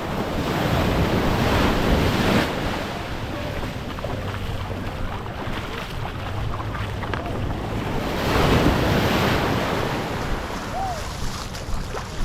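Small waves washing up on the beach, surging twice about six seconds apart, with wind buffeting the microphone.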